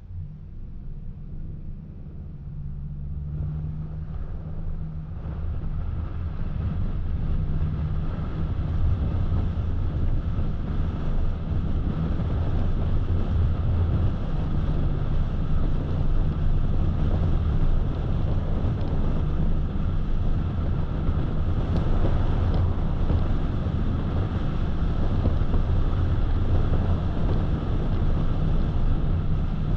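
A car driving on the road: steady low engine and tyre drone with road and wind noise, growing louder over the first several seconds, then holding steady.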